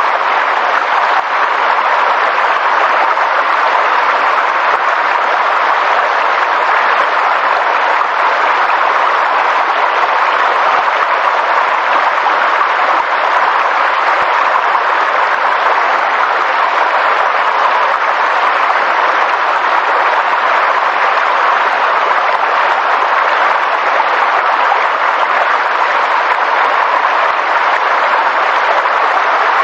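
Steady rushing water, an even hiss without breaks or rhythm.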